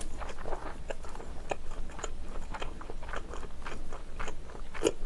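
Close-miked chewing and wet mouth sounds of a person eating a soft piece of Korean rolled omelette (gyeran-mari), as irregular small clicks and smacks.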